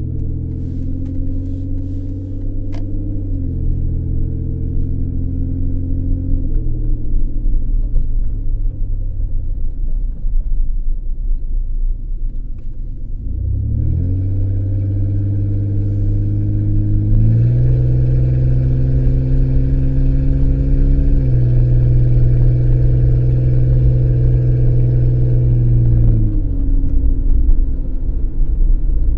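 Ford Escape driving, heard from inside the cabin: a steady engine and road drone that climbs with acceleration and steps in pitch several times as the transmission changes gear, eases off about halfway through, then picks up again.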